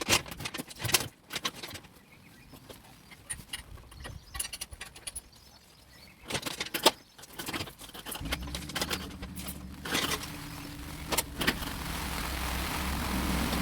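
Scattered metallic clicks and knocks of tools and parts being handled. About eight seconds in, a steady low machine hum starts, with a hiss that grows louder toward the end.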